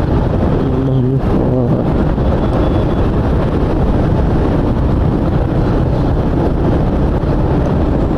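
Motorcycle riding at speed: the engine runs steadily under heavy wind rush on the microphone.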